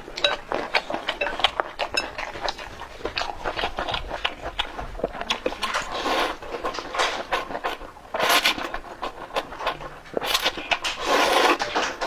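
Eating sounds up close: many small clicks of utensils against dishes, with several longer noisy stretches in the second half.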